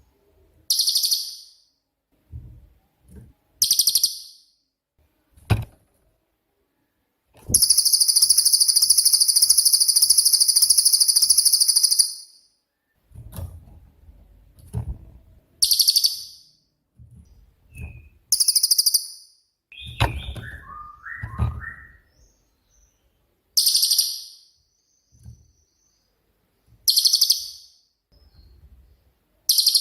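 Cililin bird singing in its 'shooting' style: short, very high, rapid bursts of song every few seconds, with one long rattling trill of about four seconds near the start. Soft low thumps fall between the phrases.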